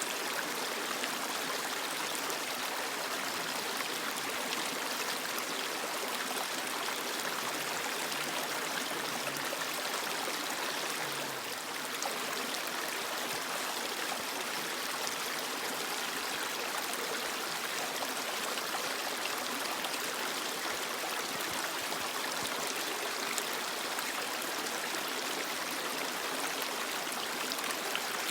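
Creek water rushing and burbling over rocks, a steady, even flow.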